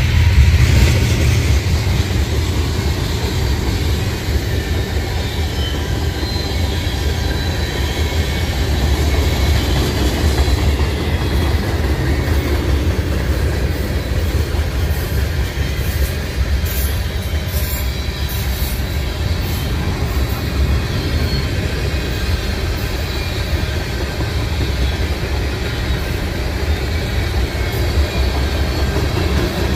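Freight train of tank cars, boxcars and hopper cars rolling past: a steady low rumble of steel wheels on the rails, with a thin, high wheel squeal at times.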